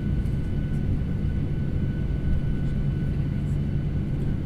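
Airliner cabin ambience on the ground after landing: a steady low rumble from the engines and air systems, with a faint steady whine over it and a few faint small clicks.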